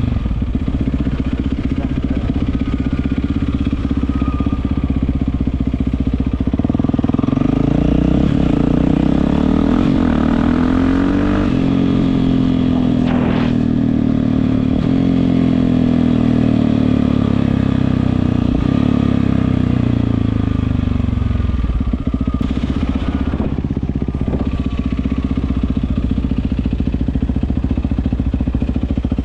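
Yamaha WR450F single-cylinder four-stroke dirt bike engine running through an Akrapovic exhaust: steady at low revs for several seconds, then rising in pitch and held higher for about ten seconds before dropping back down.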